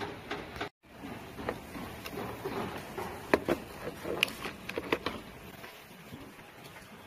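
Irregular light clicks and taps from small parts being handled during a repair, with the sharpest ones between about three and five seconds in.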